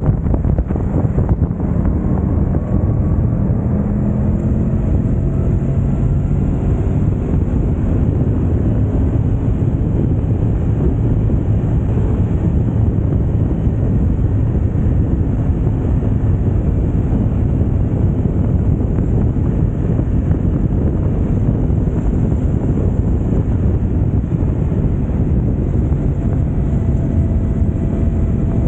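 Yamaha YZF-R1 crossplane inline-four running through an Akrapovic exhaust while riding at speed, largely covered by wind rushing over the microphone. The engine note climbs in pitch a few seconds in.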